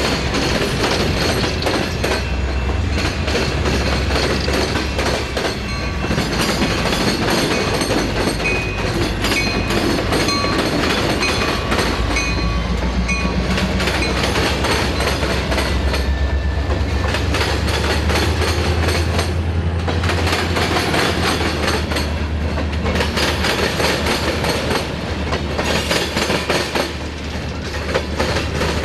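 Freight train of empty hopper cars rolling past close by, wheels clacking over rail joints over a deep, swelling rumble. Short, thin metallic squeals from the wheels come and go through the middle.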